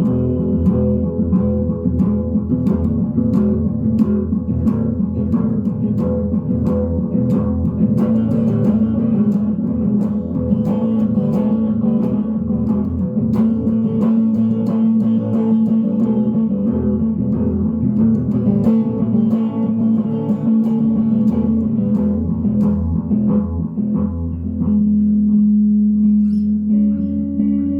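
Electric guitar picked in a continuous run through an Ecco-Fonic tube tape echo, the notes repeating and ringing out in the delay.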